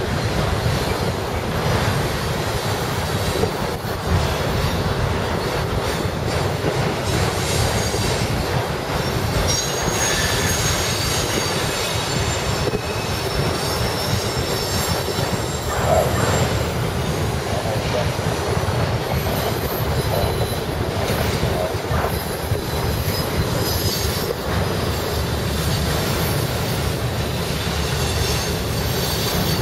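Freight train of enclosed autorack cars rolling past at speed: a steady rumble of steel wheels on rail with occasional faint high wheel squeals. Strong wind buffets the microphone.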